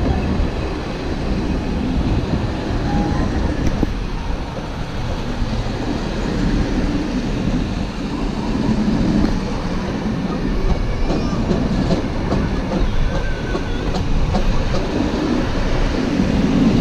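Passenger carriages of a steam-hauled train rolling past on the rails: a steady low rumble of steel wheels with some clatter.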